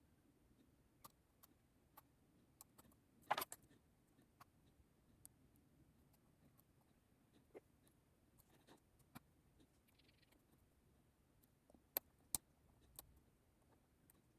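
Lock picks working inside a handmade challenge lock: sparse faint clicks, a short louder scraping click about three seconds in and two sharp clicks near the end.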